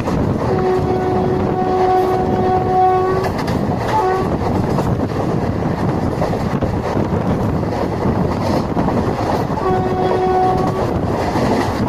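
Train running on the track with steady running noise while the electric locomotive's horn sounds: one long blast starting about half a second in and lasting nearly three seconds, a short toot around four seconds, and a second blast of about a second near the end.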